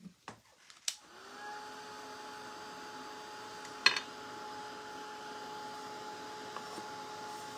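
Handheld craft heat gun switched on with a click about a second in, its fan motor spinning up and then blowing steadily with a whir, heat-setting wet paint. A single sharp click about halfway through.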